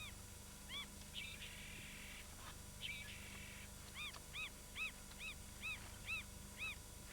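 Bird calls: two short buzzy, rattling calls in the first half, then a run of about eight short arched notes, two or three a second, in the second half. A faint steady low hum lies underneath.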